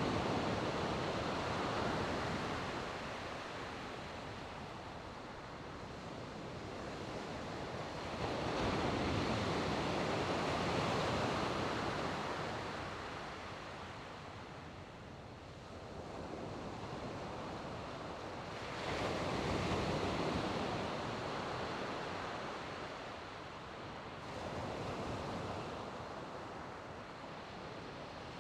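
Sea waves breaking and washing up on a beach: a steady hiss of surf that swells loudly and then fades away about four times, every several seconds.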